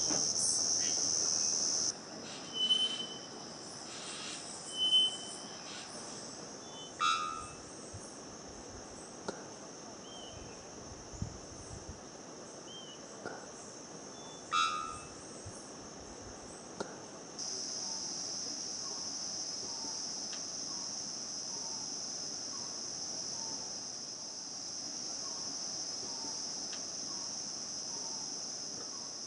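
Forest ambience: a steady high-pitched insect drone, with a few short whistled bird calls and two louder calls in the first half, and faint short repeated notes in the second half.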